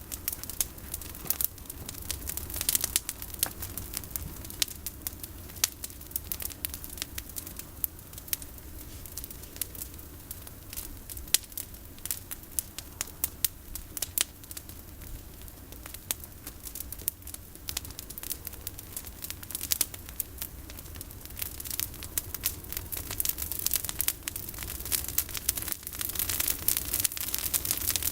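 Bonfire of pruned olive branches burning, crackling with many sharp snaps and pops over a low steady rumble. The crackling grows louder near the end.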